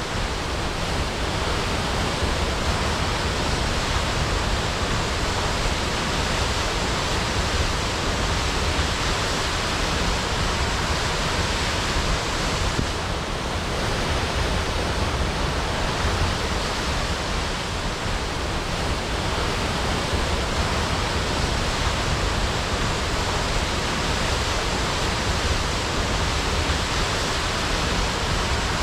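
Waterfall crashing, a steady rush of falling water.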